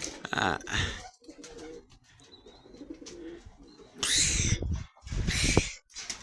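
Pigeons cooing, a low wavering coo, with two louder rustling noises about four and five seconds in.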